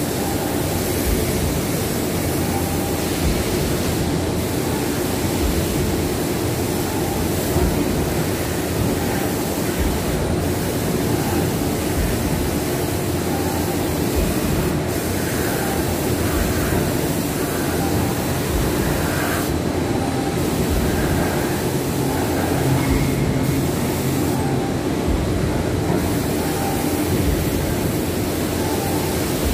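Steady mechanical running noise: a continuous rumble with hiss, unbroken and even in level.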